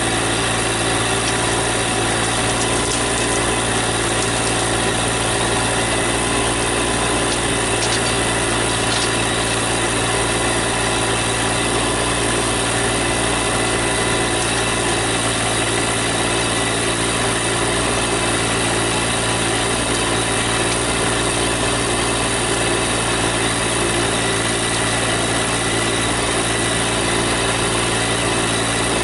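Small garden-tractor engine running steadily at an even speed, powering the backhoe.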